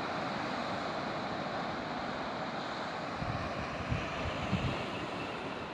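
Steady rush of breaking surf, with wind gusting on the microphone in irregular low rumbles from about halfway through.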